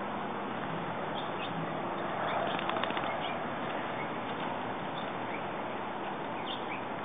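Birds chirping in short, scattered calls over a steady background hiss, with a brief rustle about two and a half seconds in.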